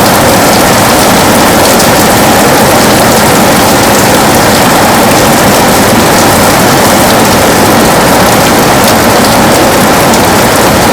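Heavy rain beating steadily on a window: a loud, dense, unbroken hiss with faint scattered taps of drops.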